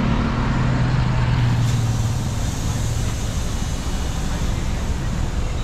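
Low, steady engine hum of a Maruti Suzuki Jimny (1.5-litre four-cylinder petrol) moving off slowly at low revs, fading about halfway through, over a steady wash of road traffic noise.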